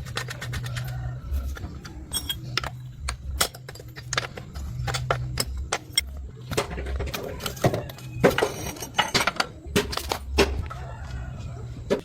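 Irregular metal clinks and knocks from hand work on motorcycle parts, sharper and more frequent in the second half, over a low steady hum.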